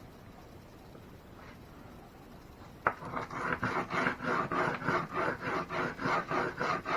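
A sharp click about three seconds in, then rhythmic rasping strokes, about three a second, like something being scrubbed or scraped by hand.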